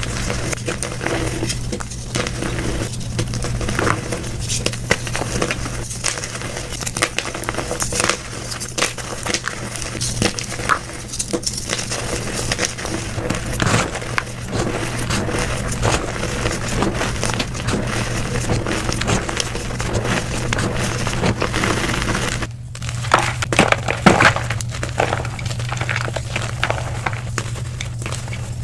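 Blocks of gym chalk being crushed and crumbled, sped up: a dense, irregular crunching and crackling over a steady low hum, broken by a short gap about three-quarters of the way through before the crunching starts again.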